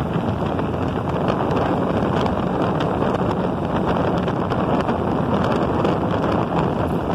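Steady wind rush on the microphone of a motorcycle-mounted phone while riding, with the motorcycle's running under it.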